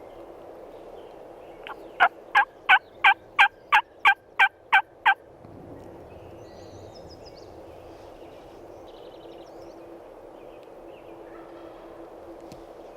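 A series of about ten loud wild turkey hen yelps, evenly spaced at about three a second, over a few seconds, then stopping.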